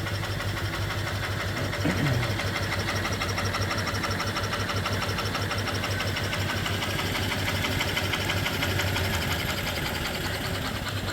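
Single-cylinder reproduction 1880s-style steam engine (3-inch bore, 4-inch stroke) running steadily under steam from its vertical boiler, with a fast, even beat. A brief falling tone sounds about two seconds in.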